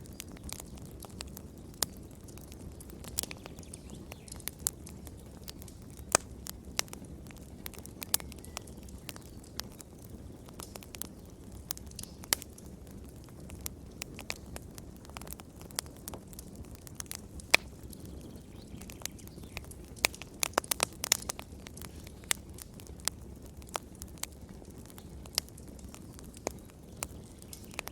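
Fire crackling in a fireplace: irregular sharp pops and snaps over a low steady rumble, with a quick flurry of pops about twenty seconds in.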